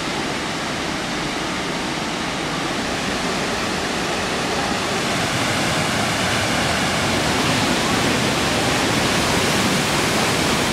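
Steady rushing noise of a large waterfall's falling water, growing a little louder about halfway through.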